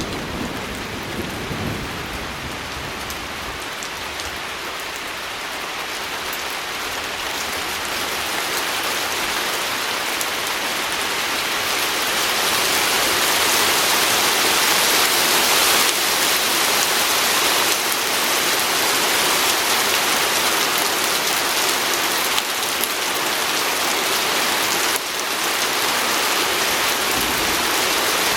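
Steady rain pattering on a window pane, swelling louder over the first dozen seconds and then holding.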